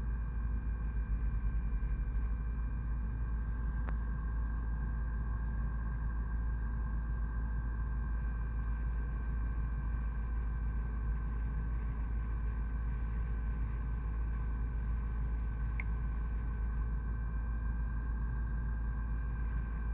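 Crane ultrasonic humidifier running: a steady low rumble with a faint constant high whine over it.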